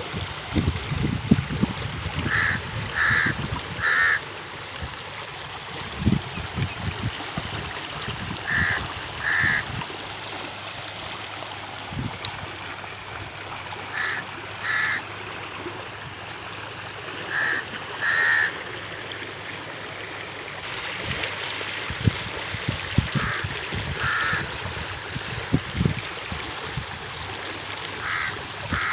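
A bird calling in short groups of two or three calls, repeated every few seconds, over a steady hiss, with occasional low thumps.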